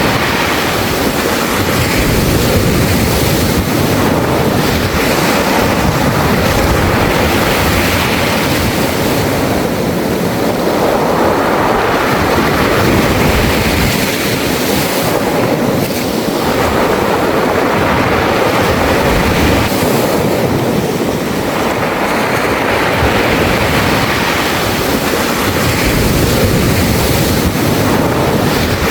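Sea waves breaking and washing over a beach of smooth round pebbles, the stones rattling in the surf. The sound is continuous, swelling and easing every several seconds as each wave comes in and draws back.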